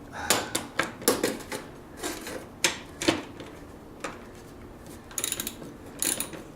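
Scattered metal clinks and knocks from hand tools, then, from about five seconds in, a socket ratchet clicking in quick short runs while the upper A-arm bolts of a snowmobile's front suspension are worked loose.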